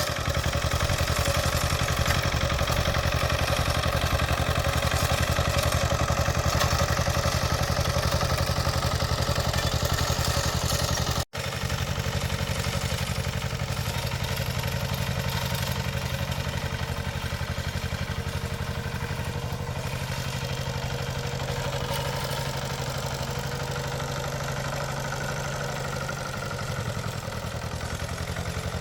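Small engine running steadily with a clattering rattle. The sound breaks off sharply about eleven seconds in and carries on a little quieter.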